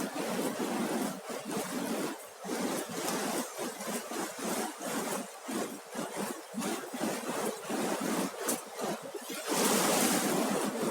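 Ocean surf washing onto a sandy beach, a continuous rush of breaking waves that swells louder near the end.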